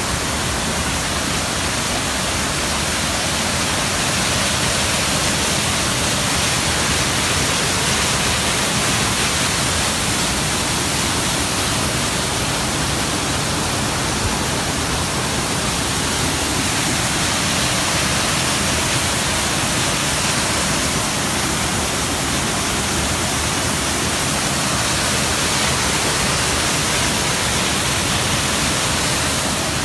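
Ceunant waterfall pouring: a loud, steady rush of falling water that does not change.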